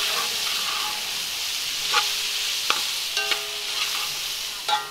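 Meatballs sizzling steadily in a large metal pot while a metal spoon stirs them, the spoon knocking against the pot about five times with short metallic rings.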